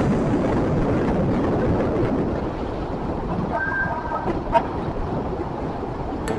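Wind rushing over the microphone with road and traffic noise from a moving motorcycle; a brief faint tone, like a distant horn, about three and a half seconds in.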